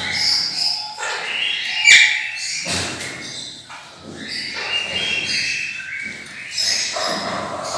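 Small pet parrots chirping and chattering, many short calls overlapping, with one sharp knock about two seconds in.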